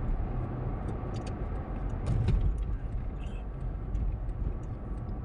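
Steady road and engine noise heard inside a moving car's cabin: a low rumble with faint, scattered ticks.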